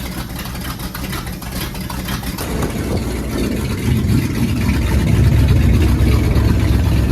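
1977 Ford F350 tow truck's engine running just after starting, its ignition timing just corrected from 180 degrees out; it grows louder about four seconds in.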